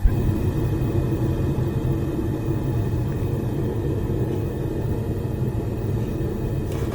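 Lit blacksmith's forge running with a steady low rumble.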